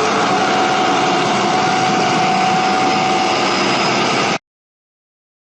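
Boat engine running steadily at sea, a loud even drone that cuts off suddenly about four seconds in.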